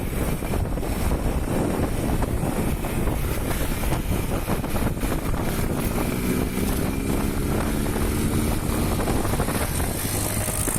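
Small motorcycle riding along, its engine running under heavy wind buffeting on a helmet-mounted camera; the engine note rises gently for a few seconds in the middle.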